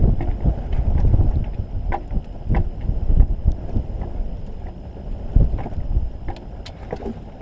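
Wind buffeting the microphone in a snowstorm, over warm engine oil pouring from a Ford 6.7L Power Stroke's drain plug opening into a bucket, with a few scattered knocks.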